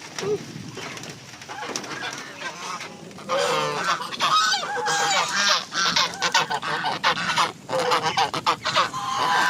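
Domestic geese honking, quieter at first and then loud, rapid, repeated honks from about three seconds in.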